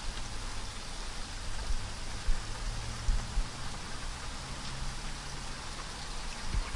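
Steady rain falling on leaves and branches, an even hiss with individual heavier drops ticking now and then.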